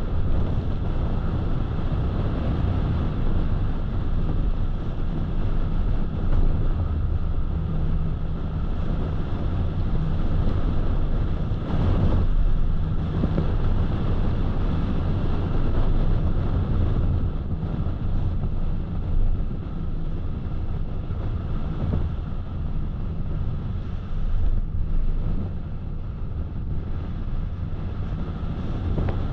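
Steady road noise of a car driving: a low drone of engine and tyres on the road, with a brief louder swell about twelve seconds in.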